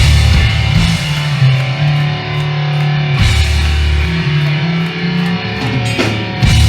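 Live hardcore band playing loud, with distorted electric guitar and bass. Heavy hits across the whole range land at the start, about three seconds in, and at the end.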